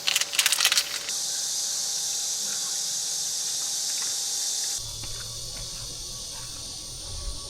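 A steady, high-pitched insect chorus droning. About a second of crackling clicks comes before it, and from about five seconds in the drone thins and low wind rumble on the microphone joins it.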